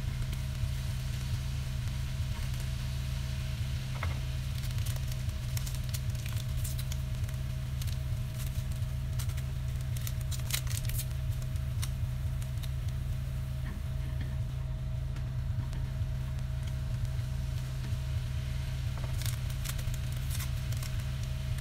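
Chicken sizzling in a frying pan, with scattered crackles and pops of spitting fat, some in quick clusters, over a steady low hum.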